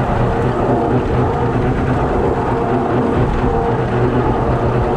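Six-cylinder Perkins diesel engine in a Fordson Major tractor running steadily under load while the tractor's slasher cuts grass.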